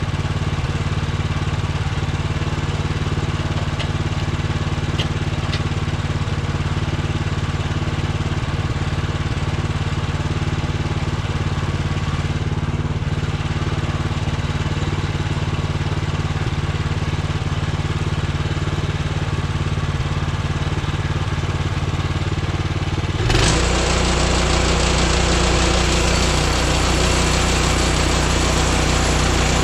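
Portable bandsaw sawmill's gas engine idling steadily, then about three quarters of the way through it is throttled up suddenly and runs louder with a harsher, hissing edge as the band blade spins up.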